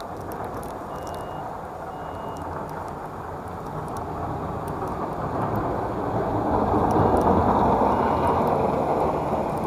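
A steady rumbling, rushing noise that swells to its loudest about seven seconds in, then eases slightly.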